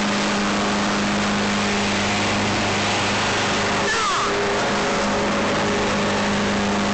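Loud, steady droning buzz of a cicada chorus, with a steady low hum beneath it.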